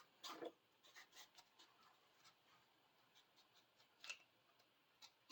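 Near silence with a few faint scratches and light clicks, the loudest about four seconds in: paint being scraped off a small saw's aluminium handle.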